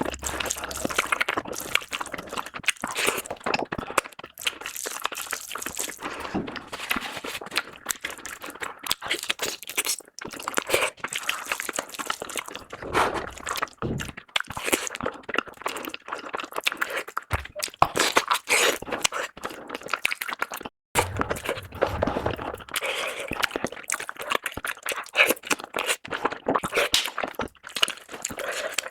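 A person eating close to the microphone: chewing and biting food in a dense run of small clicks and wet smacks.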